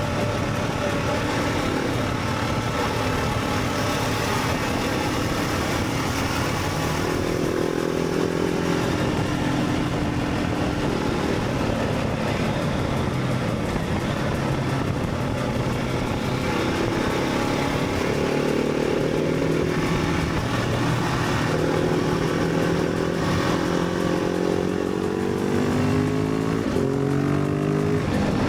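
Motorcycle engine heard from an onboard camera while riding, its revs rising and falling as the rider accelerates and shifts, with a climbing rev near the end. A steady rush of wind noise runs underneath.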